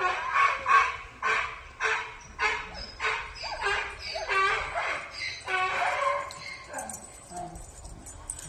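A dog barking in short, quick yips, about two a second, fading out near the end.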